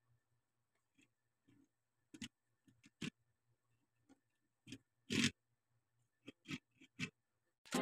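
Plastic Lego bricks being handled and pressed together: a string of quiet, irregular sharp clicks, one a little longer about five seconds in.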